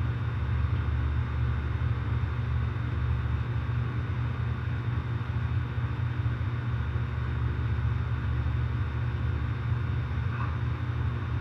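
Outdoor air-conditioner condenser units running, a steady low hum of compressors and fans.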